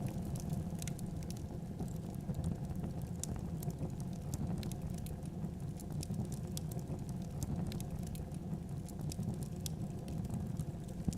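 Fireplace fire burning steadily, with frequent small, irregular crackles and pops over a low, even rumble.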